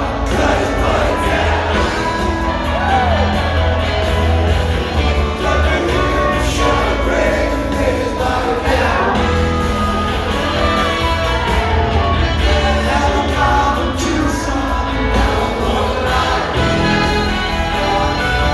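A live rock band playing, with sung vocals over guitars, bass and drums, loud and continuous.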